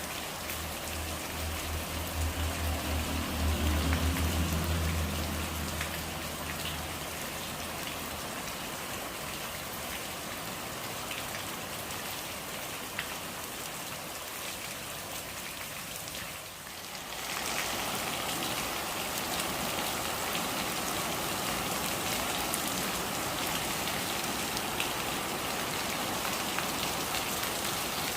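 Steady rain pattering on surfaces. A low rumble sits under it for the first several seconds. About seventeen seconds in the rain briefly drops away, then returns a little heavier.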